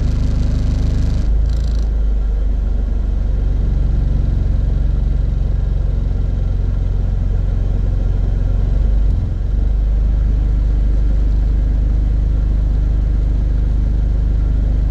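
Low, steady droning rumble of a small car's engine vibration, heard inside the cabin while the car is in drive. The rumble grows heavier a little over a second in and dips briefly near the two-thirds mark.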